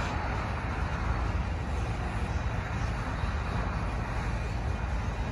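Covered hopper cars of a freight grain train rolling past: a steady, unbroken low rumble of steel wheels on the rails.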